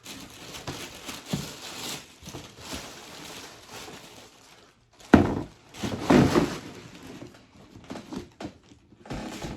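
Rustling and handling noises with a few dull thuds, about five, six and nine seconds in, as sneakers are taken out of their box and set down.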